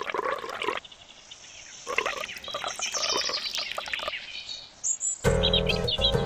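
Bird-like chirping calls in short bursts, then music with a steady low beat starts about five seconds in.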